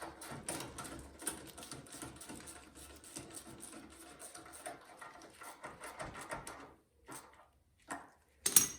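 Quick, uneven clicking and rattling of metal tools and small engine parts being handled during reassembly, followed by a few separate knocks, the loudest just before the end.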